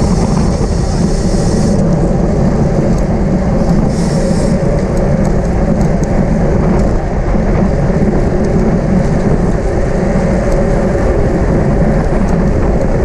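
Steady wind rush over the microphone of a camera riding on a racing bicycle at speed, with tyre and road noise underneath.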